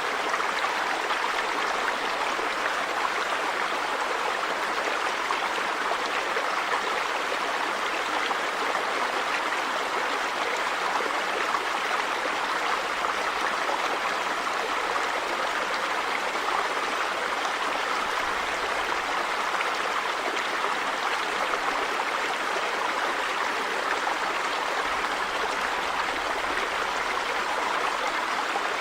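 River water running over rocks: a steady, even rush.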